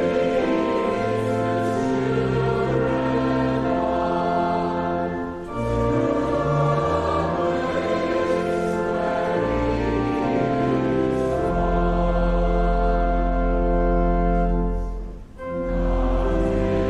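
A church hymn sung by many voices with instrumental accompaniment, held notes over a steady bass. It dips briefly twice, between phrases.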